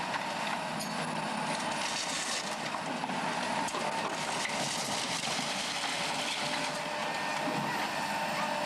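Steady running of heavy machinery, an even mechanical drone with no breaks.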